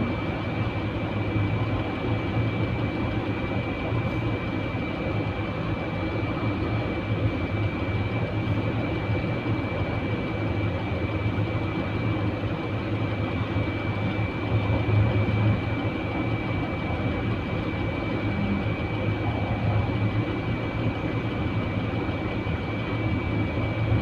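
Heavy truck engine running steadily: an even low rumble with a constant high-pitched whine.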